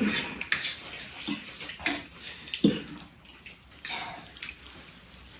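Close-up eating sounds: irregular wet chewing and smacking, with a few light clicks.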